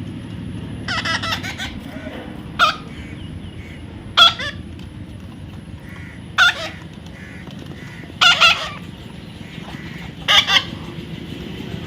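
A parrot gives short, harsh squawks, about six of them, roughly every two seconds and some in quick pairs, over a steady low hum.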